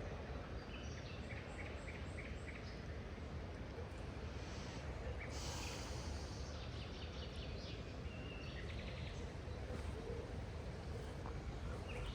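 Small birds chirping in short high calls, in two bouts, over a steady low outdoor rumble, with a brief hissing rush about five seconds in.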